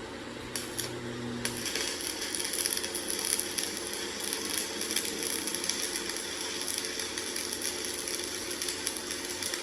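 Metalworking noise in a machine shop. About a second and a half in, a steady, gritty high hiss with rapid fine crackle sets in and keeps going.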